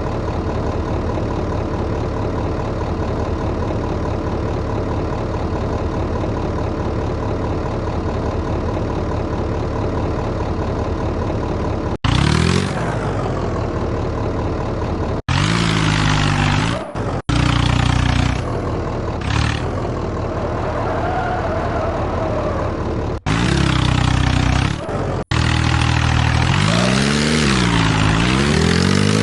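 Tractor engine running steadily, then, after several abrupt cuts, revving up and down repeatedly with its pitch rising and falling.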